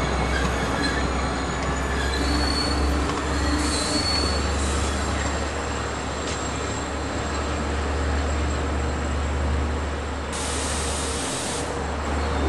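Long Island Rail Road diesel push-pull train of bilevel C3 coaches pulling away from the station: a steady rumble of the moving train, with the wheels squealing in thin high tones a couple of seconds in.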